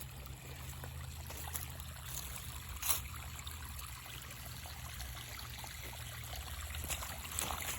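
Water from a sump pump's discharge running out and trickling, over a steady low hum. A single sharp click about three seconds in.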